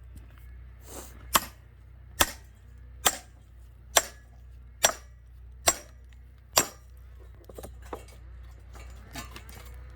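Hammer blows on a splitting wedge set in an upright firewood log: seven sharp, ringing metal strikes in a steady rhythm about once a second, then a few softer knocks near the end.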